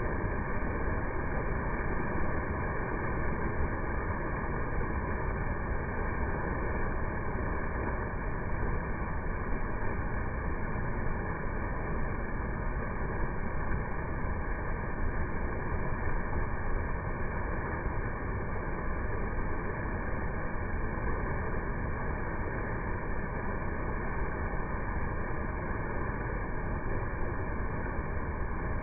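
Steady rush of water pouring down a waterfall, an even unbroken roar with no change throughout.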